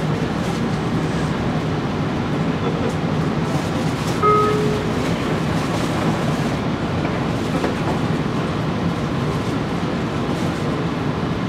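Steady cabin rumble inside a JR Kyushu 817-series electric train carriage, with a short beep about four seconds in.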